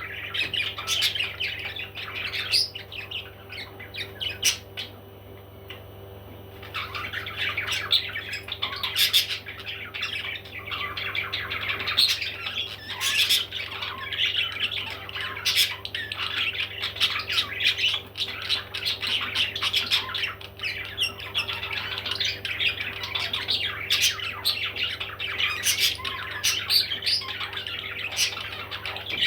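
Parrots squawking and chattering almost without pause, with a short lull about five seconds in.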